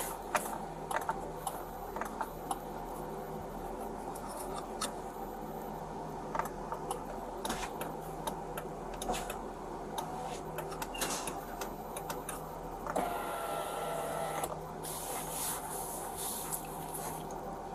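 Steady mechanical hum with many scattered clicks and rustles, and a brief whirring noise about thirteen seconds in.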